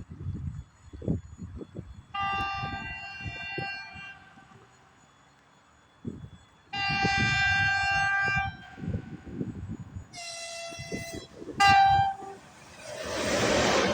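The ЭП1П electric locomotive's horn sounds four times: two long blasts, a shorter one, and a brief loud final toot. Then the rising rush of the train drawing near swells up near the end.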